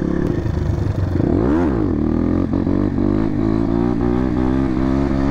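Motorcycle engine running under way, its pitch wavering as the throttle is worked, with one quick rev that rises and falls about a second and a half in.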